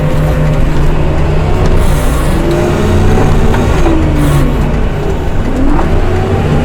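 Diesel engine of a snow-removal machine running hard, its revs rising and falling as it works, with brief surges of hiss.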